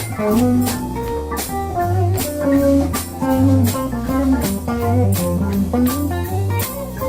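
Live blues-rock band in an instrumental break: an electric guitar plays a lead line with bent notes over bass guitar and drums.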